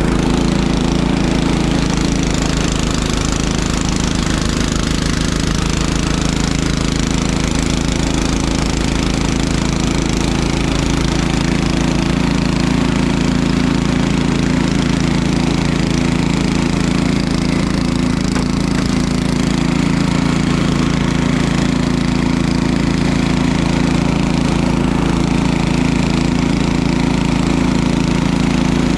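Small single-cylinder engine running steadily at an even speed, with a fast, even chugging beat.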